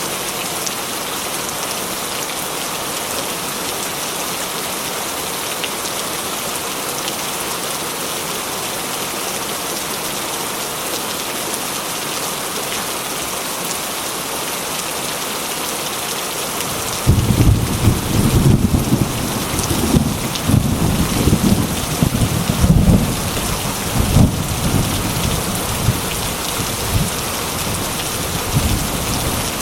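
Heavy rain hissing steadily on a corrugated metal roof. A little over halfway in, thunder breaks in with a loud, uneven low rumble that rolls for several seconds and then dies away.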